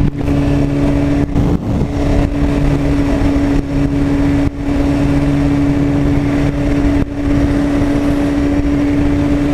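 BMW S1000RR inline-four engine running at a steady, even pitch while riding, with low wind rush over the microphone.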